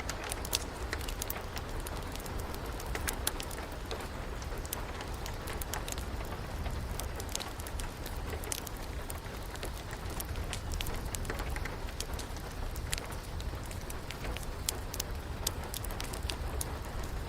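Wood fire crackling, with frequent irregular sharp pops and snaps, over steady rain and a low rumble.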